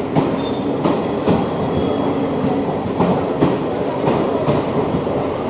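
Passenger train rolling on the rails: a steady rumble broken by irregular clacks of the wheels over rail joints, with a faint, thin wheel squeal now and then.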